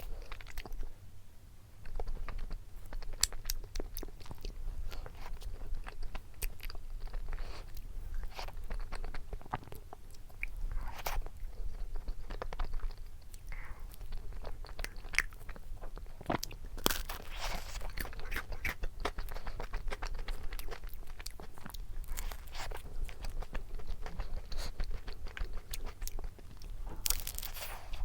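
Close-up eating sounds of a cone ice cream: repeated crisp crunching bites and chewing. There are louder, longer crunching stretches at about two-thirds of the way through and again near the end.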